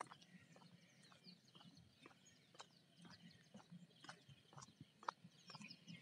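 Faint birds chirping, many short high calls overlapping, with soft irregular clicks about twice a second.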